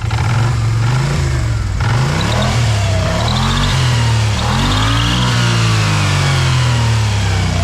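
Kymco AK 550 scooter's parallel-twin engine being revved up and down about three times off the stand, with a faint high chirp ("piado") coming from the wheel drive as the revs rise.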